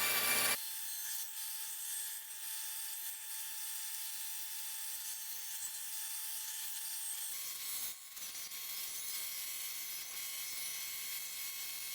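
Band saw running steadily on a small piece of birch, a hiss with a faint steady whine, broken off briefly about eight seconds in.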